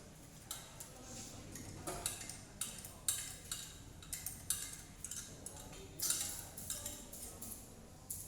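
Irregular light metallic clicks and clinks, like hand tools and small engine parts being handled and set down on a workbench during a cylinder head teardown.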